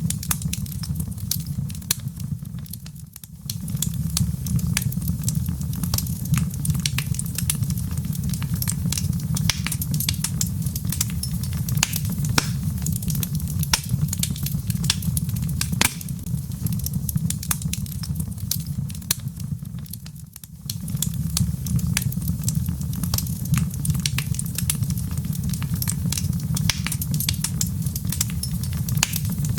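Log fire burning in a fireplace: frequent sharp crackles and pops over a steady low rumble. The rumble drops away briefly twice, about 3 seconds in and about 20 seconds in.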